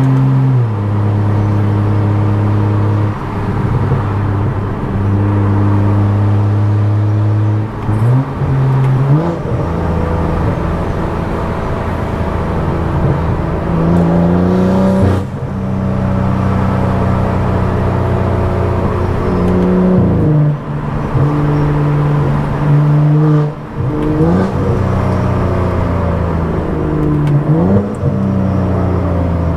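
Tuned BMW F10 535i with a turbocharged inline-six and a loud aftermarket exhaust, heard while driving. The engine drones steadily for long stretches, and about six times it rises sharply in pitch on a burst of throttle or a gear change, then drops back.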